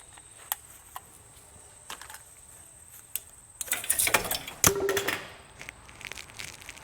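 Metal clicks and clinks of tools and parts being handled: a few scattered ticks, then a burst of clattering about three and a half seconds in, with one sharp metallic clank that rings briefly.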